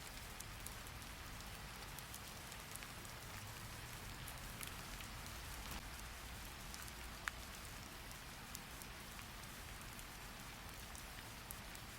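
Steady rain, an even hiss with scattered, irregular sharp drop ticks, one standing out about seven seconds in.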